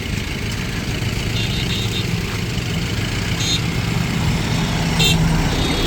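Highway traffic with a steady low engine rumble from passing vehicles, broken by a few brief high tones.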